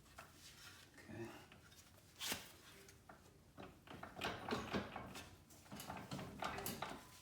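Intermittent metal knocks, clanks and scrapes as a car's front drive axle is worked loose from the wheel hub, with a sharp knock about two seconds in and a busier run of clatter in the second half.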